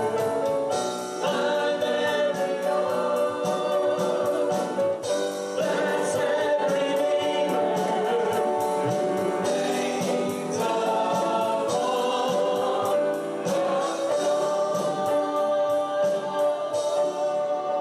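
Congregation or choir singing a gospel worship song with instrumental accompaniment and a steady beat.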